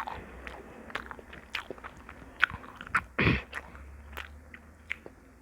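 A person chewing and biting food close to the microphone: irregular wet clicks and crunches, with one longer, louder burst a little after three seconds in.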